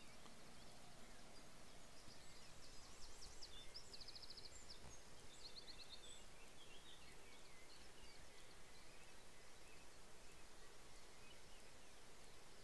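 Faint small-bird song: quick high chirps and a couple of rapid trills a few seconds in, then scattered faint chirps over a steady low hiss.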